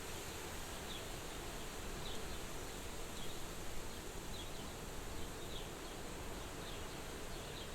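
Soft, steady wind at a farmhouse window, with faint short high chirps about once a second.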